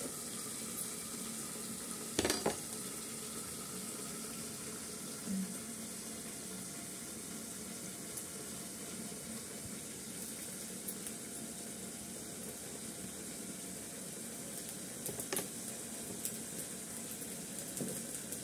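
Pointed gourd frying in oil in a pan, sizzling steadily, with a few faint knocks about two seconds in and again later.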